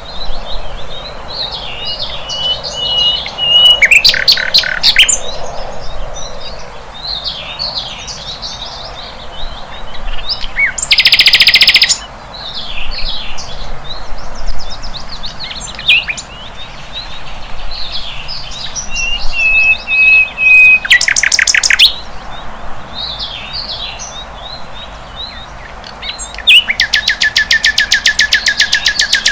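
Flycatcher (sikatan londo) singing a busy, varied song of quick twittering chirps. It is broken by two long, thin, level whistles and by loud, harsh, rapid rattles, the longest of them starting near the end.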